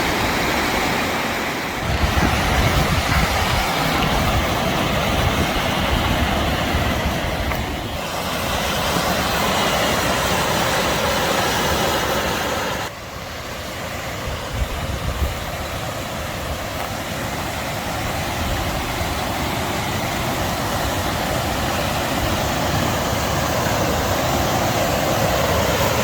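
Steady rushing of the Sheep River's fast water and falls, a dense, even wash of noise. The level drops abruptly about halfway through, then slowly builds again.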